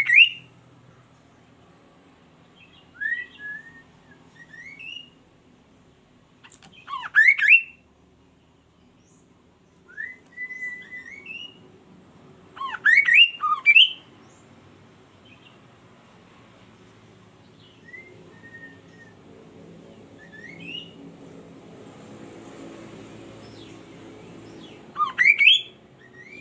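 A kaso-kaso bird singing: clusters of sharp, rising whistled notes every few seconds, loudest at the start and at about 7, 13 and 25 seconds in, with softer short chirps between.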